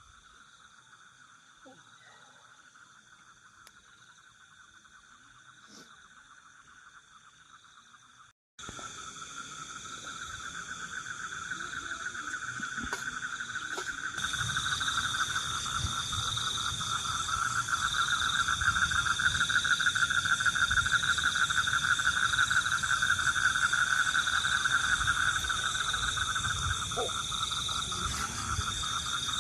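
A steady chorus of calling animals in the forest: a fast pulsing trill in the middle range and a higher, steadier trill above it. It cuts out for a moment about eight seconds in and comes back louder. From about the middle there is a low rumble underneath.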